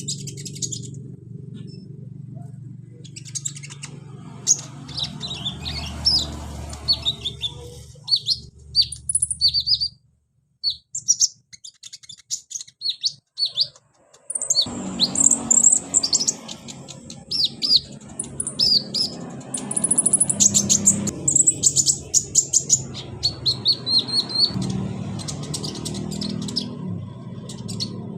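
Konin (kolibri ninja sunbird) calling in rapid, high, short chirps and twittering trills over a low, steady background noise. The calls and background drop out to near silence from about ten seconds in, with a few faint clicks, and resume about four seconds later.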